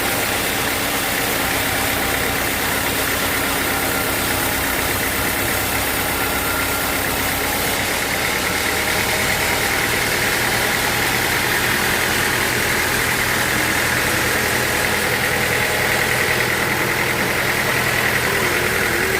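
Sawmill machinery running steadily, a continuous engine-like drone with a high whine that grows a little stronger in the second half.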